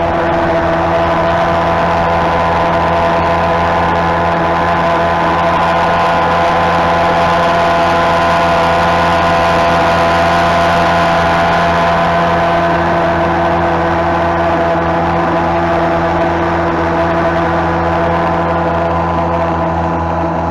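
Vikhr two-stroke outboard motor running at a steady speed, a constant engine drone with no change in pitch.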